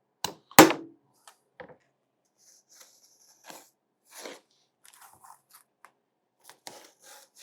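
A hand hole punch snapping shut twice near the start, the second snap the loudest, followed by scattered light rustling and small clicks.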